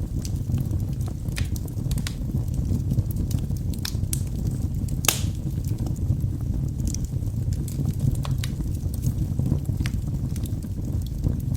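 Firewood burning in a fireplace, crackling with scattered sharp pops over a steady low rumble; the loudest pop comes about five seconds in.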